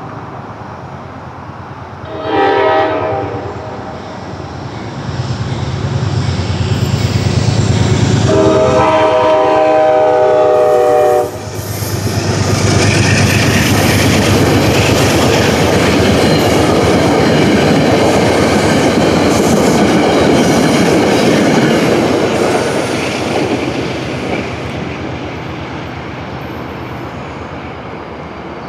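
Metro-North GE P32AC-DM diesel locomotive sounding its horn for a grade crossing: a short blast about two seconds in and a longer blast ending about eleven seconds in. The passenger train then rolls through with a steady rumble and clatter of wheels on the rails, fading near the end.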